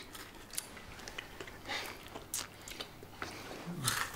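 People chewing and biting into a crunchy homemade cake, with scattered short crunches and mouth noises.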